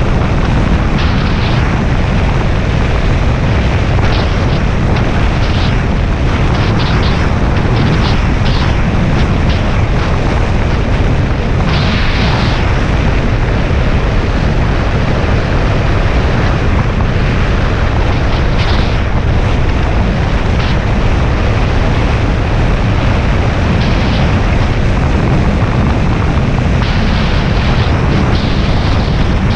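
Steady, loud wind rush on the microphone of a Suzuki Bandit 650S riding at road speed, with the motorcycle's running noise beneath it.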